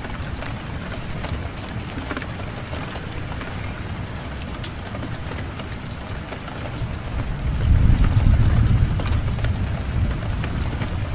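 Fireplace fire crackling, with scattered sharp pops, over a low rush of wind that swells into a strong gust about seven seconds in and then eases off.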